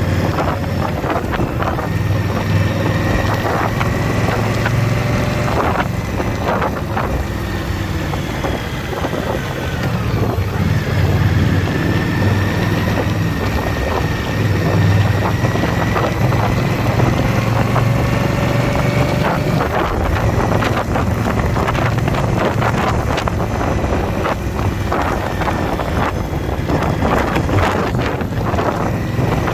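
Motorcycle engine running steadily at riding speed, with wind rushing over the microphone.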